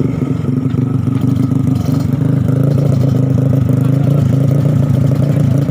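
Motorcycle engine running steadily at a near-constant pitch, getting slightly louder about halfway through.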